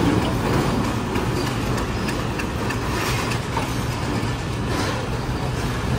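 Diesel train moving through the station: a steady engine hum with wheel and rail noise.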